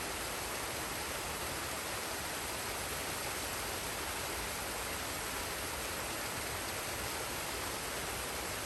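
Waterfall and forest stream: a steady, even rush of falling and flowing water that does not change.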